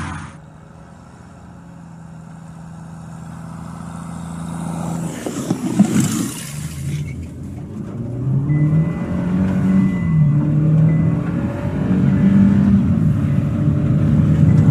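Car engine heard from inside the cabin as the car drives along a road. Its drone grows louder over the first few seconds and, after a brief loud rush of noise about six seconds in, rises and falls in pitch as the car speeds up.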